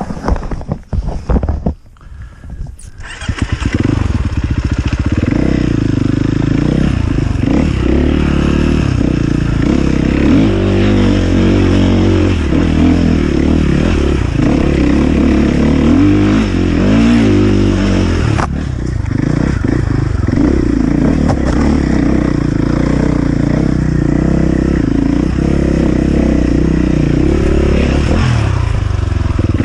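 Enduro motorcycle engine: a few loud short bursts in the first three seconds, then running continuously, its pitch rising and falling as the throttle is worked.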